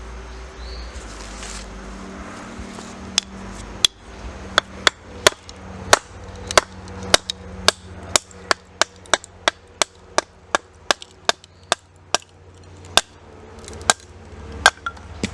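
Wood being chopped with a blade: a run of about two dozen sharp strikes, beginning about three seconds in and coming two to three a second.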